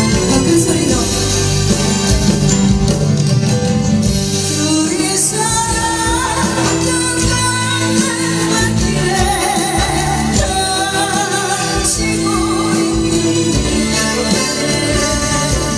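A Korean ballad performed live: a female voice singing a melody in long, wavering notes over steady instrumental accompaniment.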